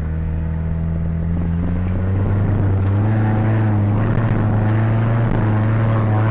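Mazda Miata's four-cylinder engine running at steady revs, heard from inside the cabin. The engine note climbs a little about two seconds in, then holds.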